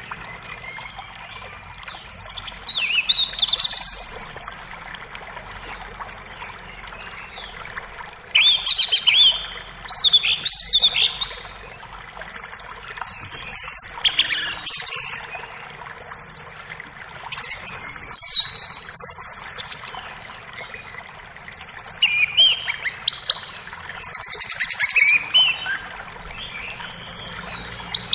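Several songbirds chirping and trilling in short, high-pitched bursts every second or two over a steady rush of creek water.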